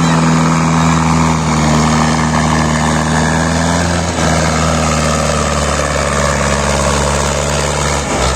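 Tractor's diesel engine running steadily under load, its note shifting slightly about four seconds in.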